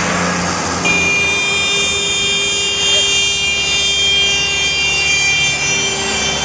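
A vehicle horn sounding one long, high-pitched blast, starting about a second in and held to the end, over the steady rumble of passing tractor engines.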